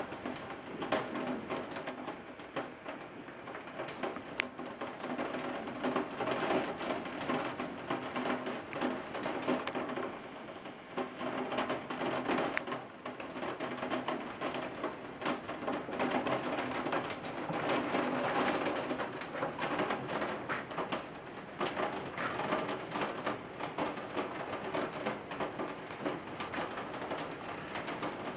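Steady rain pattering on a surface, a dense run of small drops and drips, with one sharp tick about twelve seconds in.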